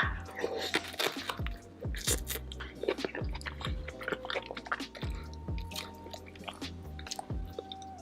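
Close-miked mukbang eating: loud chewing, biting and crunching of food. Background music with held bass notes and a kick drum plays underneath.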